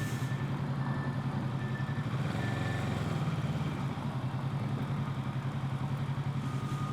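Kawasaki Z650's parallel-twin engine running steadily at low revs, heard through a helmet-mounted recorder, with an even throb.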